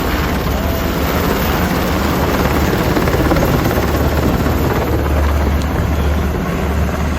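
Military helicopters flying over, a loud steady low rotor drone with a broad rushing noise on top, swelling slightly around the middle before easing off.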